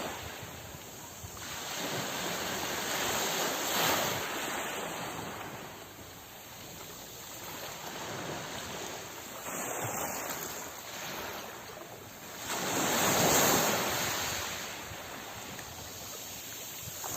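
Ocean surf: waves breaking and washing in, the noise swelling and falling back in slow surges every few seconds, the loudest wave about thirteen seconds in.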